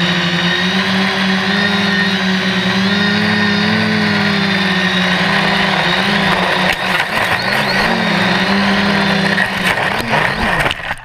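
Quadcopter's electric motors and propellers droning steadily, the pitch wavering as the throttle changes. In the last few seconds the pitch swings up and down with several sharp knocks, and the drone falls away abruptly right at the end.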